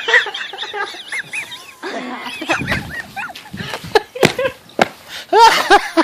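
People laughing hard in short, repeated high-pitched bursts.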